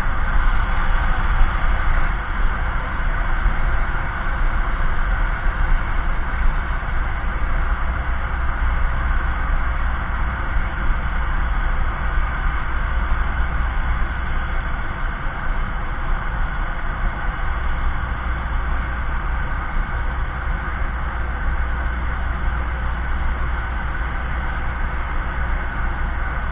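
Atlas V rocket launch noise: a steady, dense rumble from the rocket's engines during ascent, heavy in the low end, fading slightly as it goes.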